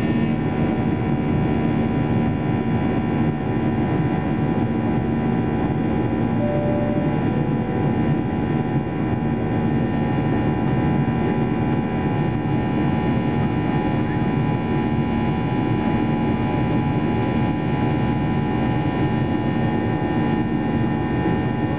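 Steady cabin noise of a Boeing 737-800 with CFM56-7B engines running, an even rush with several steady whining tones over it.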